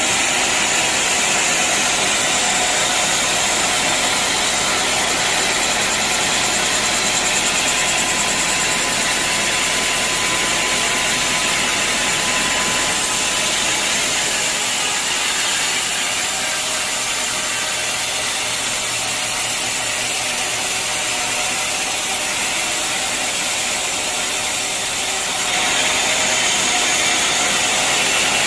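Bandsaw sawmill running steadily, with a steady hiss-like machine noise; it grows louder and brighter about 25 seconds in.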